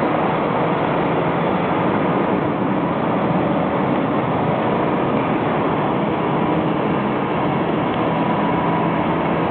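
Tractor engine running while its sweeper brushes dirt off concrete: a steady, unbroken noise.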